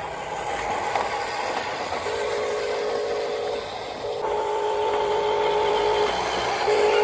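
Huina 1573 radio-controlled dump truck's electric drive motor and gearbox whining at a steady pitch. The whine drops out briefly about halfway through, then returns louder.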